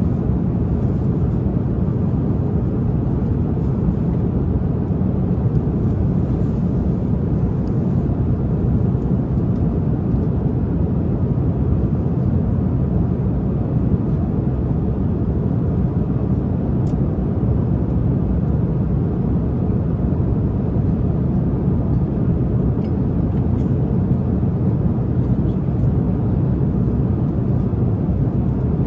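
Airliner cabin noise in flight: a steady, low rumble and rush of jet engines and airflow. A few faint clicks sit on top of it.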